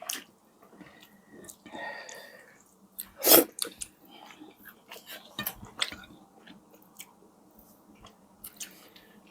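Close-up chewing and biting sounds of people eating, with wet mouth clicks and crackles throughout and one louder sharp burst about three and a half seconds in.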